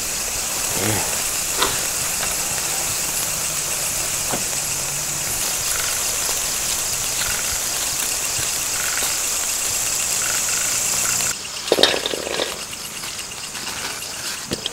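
Forest insects chirring steadily in a high, finely pulsing drone, which drops away abruptly about eleven seconds in, leaving fainter rhythmic chirping and a few short knocks.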